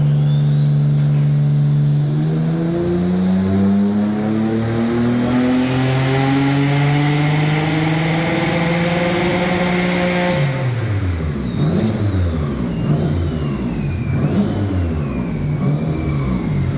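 Turbocharged Subaru EG33 flat-six engine in a dyno pull. It holds steady for a couple of seconds, then the revs climb smoothly for about eight seconds with a high turbo whine rising alongside. About ten seconds in it lifts off sharply, and the revs fall while the whine winds down.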